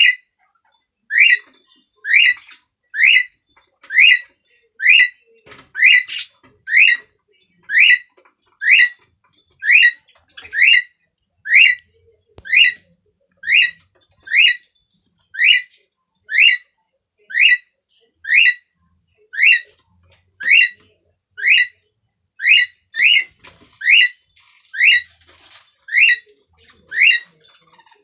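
Cockatiel calling over and over, a short rising whistled call repeated steadily about once a second.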